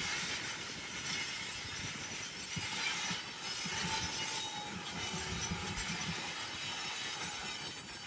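Railroad cars rolling past, their wheels knocking and clicking irregularly over the rail joints, under a steady hiss of rolling noise.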